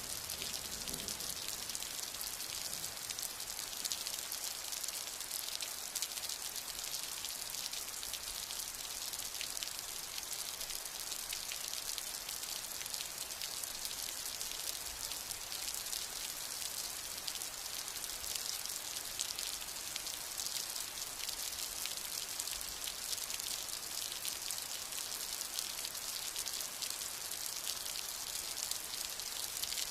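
Steady rain falling: an even hiss with a dense patter of drops, unchanging throughout.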